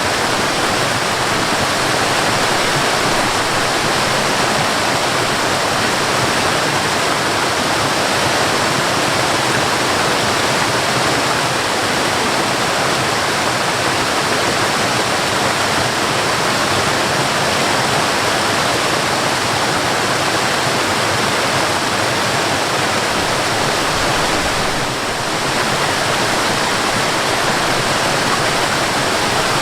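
Waterfall: water rushing steadily, a dense even noise, with a brief softer moment near the end.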